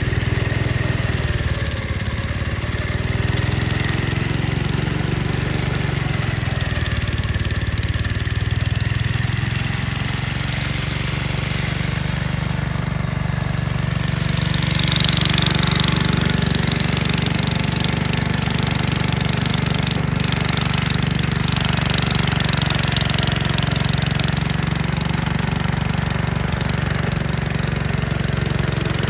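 Gravely Commercial 10A walk-behind tractor engine running steadily, driving a dog-eater snowblower. About halfway through, a hissing rush joins the engine and carries on.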